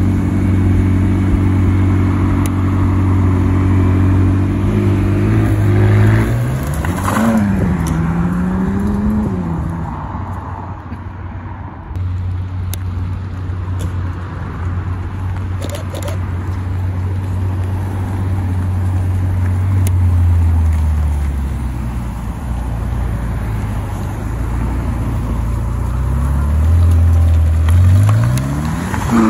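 McLaren twin-turbo V8 supercar engines: a 600LT idling steadily, with throttle blips that rise and fall about six to nine seconds in. Later another steady idle, then a 720S pulling away with revs climbing near the end.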